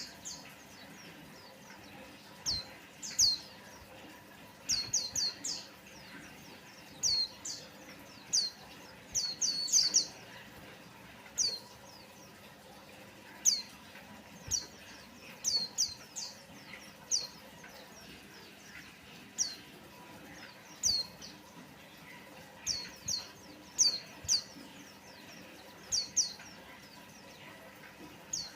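White-eye calling: short, sharp, high notes that sweep downward, singly or in quick runs of two to four, repeated at irregular intervals.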